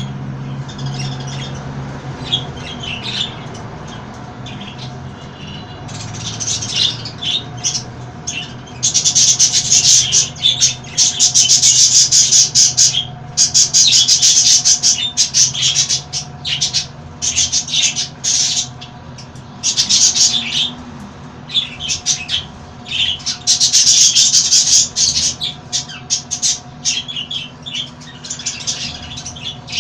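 Parrots squawking. Short chirps come in the first few seconds, then long, loud, harsh screeching from about nine seconds in, in stretches through the middle and again near the end, over a faint steady hum.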